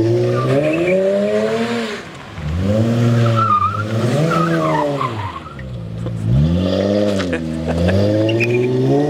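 Car engine revved hard in repeated rises and falls, about four times, while its rear tyres spin and squeal on the pavement in a sideshow stunt.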